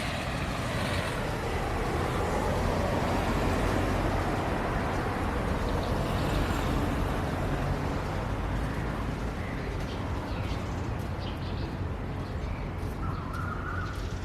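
Steady rain with a low rumble underneath that swells and eases, like traffic passing on a wet road. A few short chirps come near the end.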